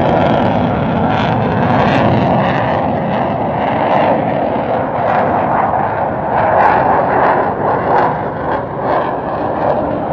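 Airplane flying past with its engine noise loud and steady, without clear rises or falls in pitch.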